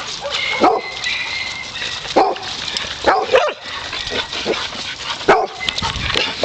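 Several dogs barking and yipping on and off, competing for a person's attention, with a thin, steady, high whine in the first couple of seconds.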